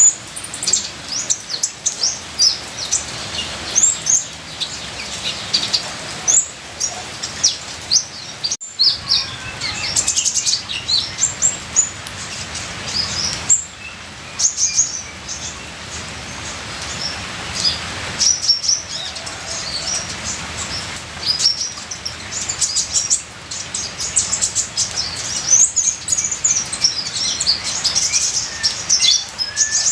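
Sunbird (the 'kolibri ninja' of Indonesian bird-keepers) singing nonstop: rapid, high, thin chirps and trilled phrases over a steady background of trickling rain water.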